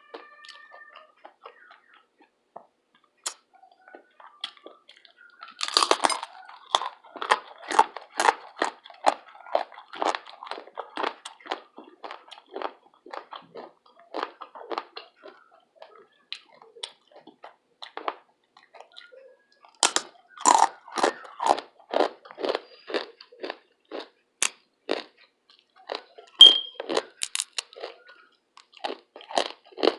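Close-miked chewing of crunchy breakfast food: two loud bites, about six seconds and twenty seconds in, each followed by steady, rhythmic crunchy chewing at about two chews a second.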